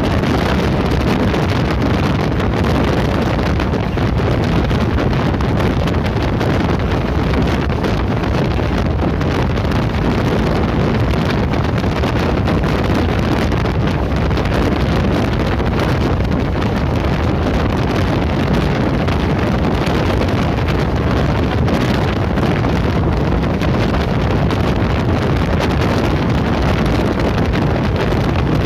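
Train running at speed: a steady rush of wind buffeting the microphone over the rumble of the train on the track.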